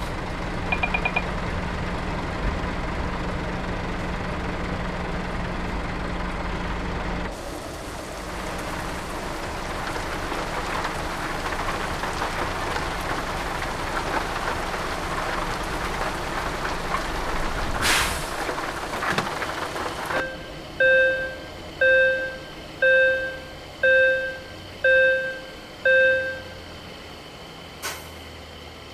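Heavy Scania G-series truck running, with a sharp air-brake hiss a little past halfway. Later a reversing alarm beeps six times, about once a second.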